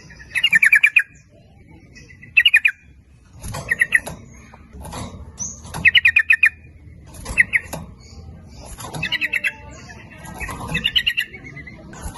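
Sooty-headed bulbuls (trucuk) calling in short, fast chattering bursts of rapidly repeated notes, about seven bursts spaced a second or two apart.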